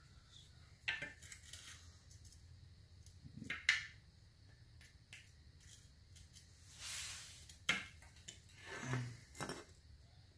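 Small metal tool clicking and scraping against a metal shifter housing while stuck rubber grommets are worked out, in short separate knocks and scrapes. The sharpest knock comes about three and a half seconds in, and short scrapes follow near the end.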